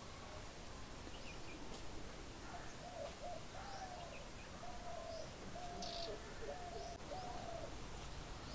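A bird calling a run of about eight short, low hooting notes at an even pace, starting about two and a half seconds in and stopping just before the end, with a few faint high chirps from other birds.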